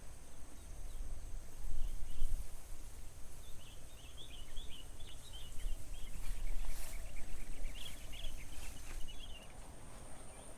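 Rice-field ambience: small birds chirp and twitter for several seconds through the middle, over a steady high-pitched insect drone and a low, uneven rumble of wind.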